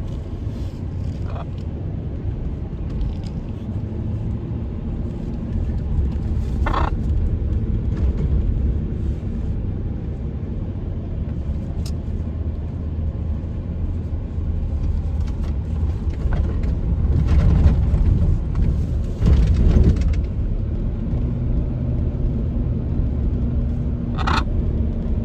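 Car cabin noise while driving: a steady low engine and road rumble, louder for a few seconds about two-thirds of the way through, with a few brief sharper sounds over it.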